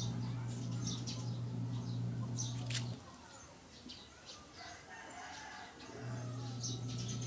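Birds calling, with short high chirps, over a steady low hum that drops out for about three seconds in the middle.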